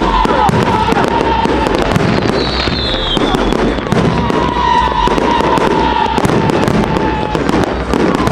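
Fireworks going off in a dense, continuous crackle of rapid pops. A whistling tone falls slightly in pitch over about three seconds, starting about four seconds in.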